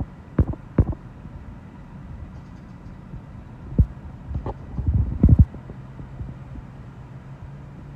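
Strong wind gusts buffeting the microphone in irregular low thumps, heaviest about five seconds in, over a steady low hum.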